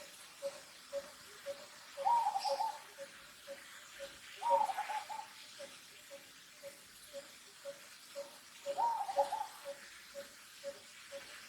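Birds calling: a short note repeated steadily about twice a second, and three louder wavering calls, each under a second long.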